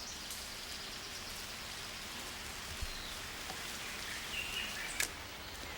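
Steady rainforest background hiss, like light rain, with a brief faint high call about four and a half seconds in and a single sharp click at about five seconds.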